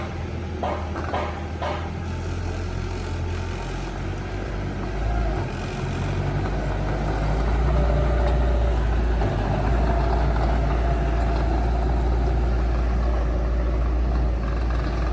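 Heavy diesel engine of earthmoving machinery running steadily, with a few evenly spaced sharp knocks in the first two seconds; the engine grows louder around five to eight seconds in and holds there.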